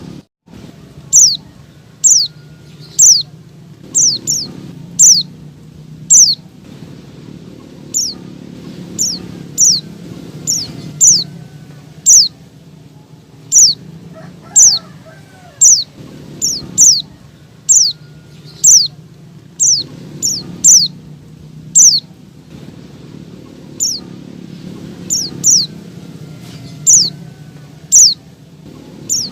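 Female white-eye (pleci) calling: short, sharp high chirps that each drop quickly in pitch, repeated irregularly about one to two a second. This is a female's call, used as a lure to set male pleci singing.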